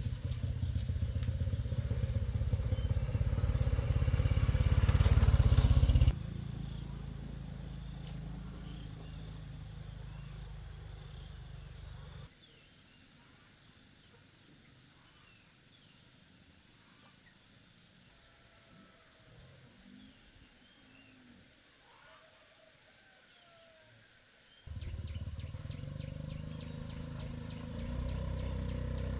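An engine running for the first six seconds, then after abrupt cuts a steady high insect chirring with a few short bird chirps, before low engine-like rumbling returns near the end.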